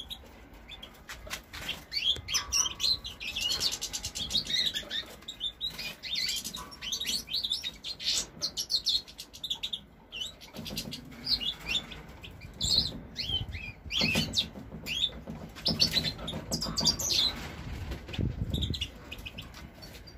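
Small birds chirping over and over, with bursts of wing fluttering.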